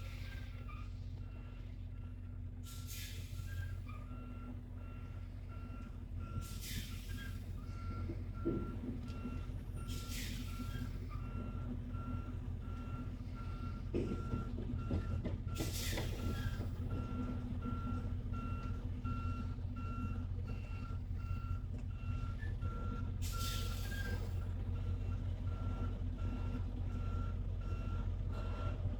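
Semi truck's backup alarm beeping steadily as it reverses, over the low running of its diesel engine. Five short air hisses from the air brakes break in along the way.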